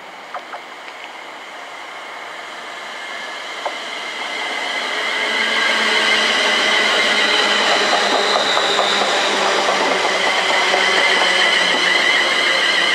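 Electric multiple-unit passenger train, a London Midland Class 350, passing close at speed. Its wheel-on-rail rush builds over the first few seconds, then holds loud with a steady high whine and a quick run of wheel clicks over the rail joints. A few faint sharp clicks come before it arrives.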